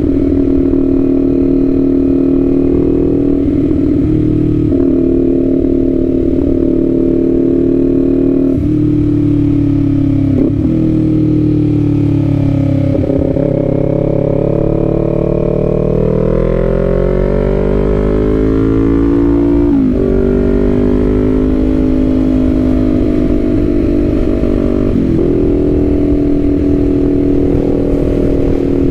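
Kawasaki Z400's 399 cc parallel-twin engine running as the bike is ridden, heard from the rider's seat. It holds a steady engine note, then eases off and dips in pitch about a third of the way in. It climbs steadily in revs under acceleration, breaks at a gear change around two-thirds of the way through, and settles back to a steady cruise.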